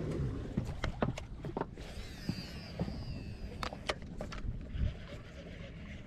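A boat's motor running with a low steady hum, under a scattering of sharp clicks and knocks.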